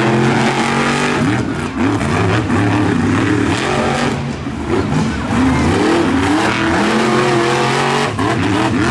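Monster truck engines revving hard, again and again, with several pitch rises and falls overlapping throughout.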